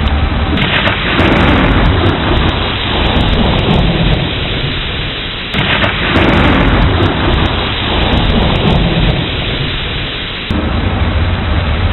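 Thunderstorm with steady rain: a rumble of thunder breaks in suddenly about half a second in and fades away, a second peal breaks in at about five and a half seconds and fades likewise, and a third swells up near the end.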